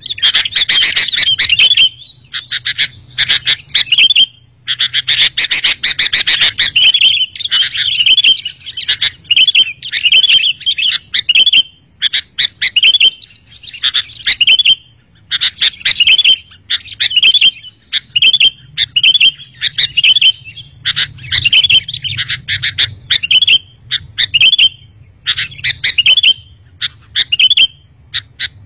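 Sooty-headed bulbul (kutilang) singing: a rapid string of short, loud, bubbly phrases, several a second, with denser, noisier chatter near the start and again about five seconds in.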